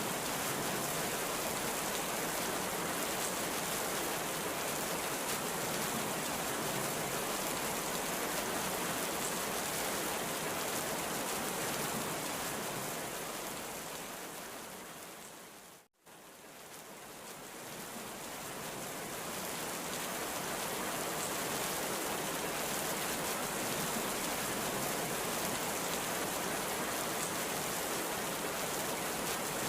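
Heavy rain falling, a steady dense hiss. About halfway through it fades out to a moment of silence, then fades back in.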